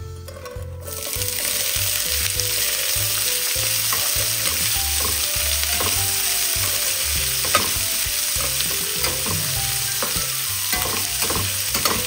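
Sliced onions, garlic and green chillies hit hot oil in a stainless steel pan and start sizzling about a second in, then keep frying steadily while a metal spoon stirs and scrapes against the pan.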